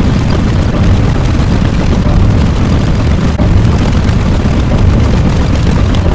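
Loud, continuous rumbling noise, strongest in the bass, with no clear pitch or break.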